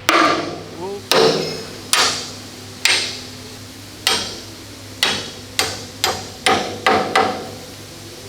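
Hammer knocking metal pins on the Type 88 anti-aircraft gun's mounting, about eleven ringing blows, roughly one a second at first and coming faster near the end.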